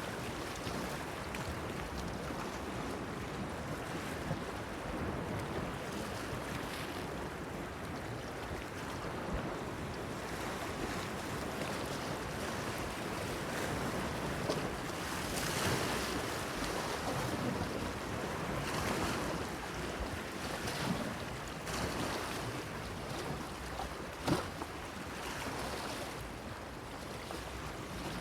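Sea waves washing against a stone breakwater, with wind, in an unsteady wash that swells louder in several surges. There is a single brief, sharper sound near the end.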